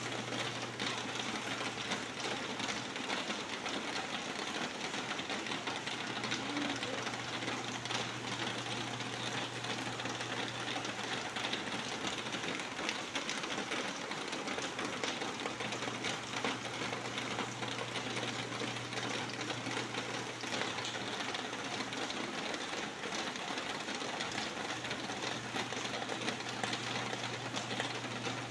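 Steady rain falling: an even hiss with a dense patter of drops striking a surface. A low steady hum runs underneath and fades out a couple of times.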